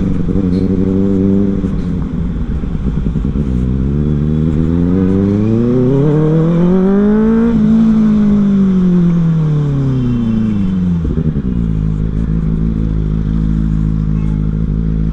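Benelli motorcycle with a modified aftermarket exhaust on the move: the engine note climbs steadily for a few seconds, peaks about halfway through, then falls away as the throttle is closed, settling to a low steady note for the last few seconds.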